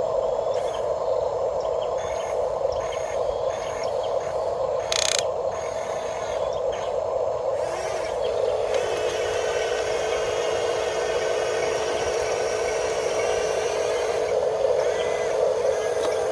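Small electric motors and gearboxes of a radio-controlled construction model whining steadily, with a brief sharp scrape or click about five seconds in and a faint higher servo-like whine in the second half.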